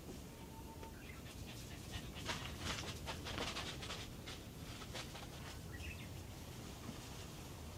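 A dog panting, in irregular breathy bursts that are loudest in the middle stretch.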